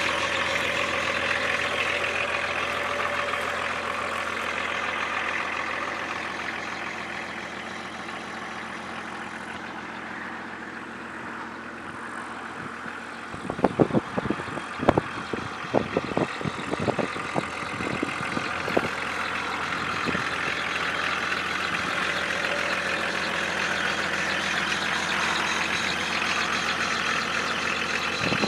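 BMW 525tds turbo-diesel straight-six running steadily after an engine swap. About halfway through, a run of sharp, irregular clicks or knocks sounds for several seconds, with one more knock at the end.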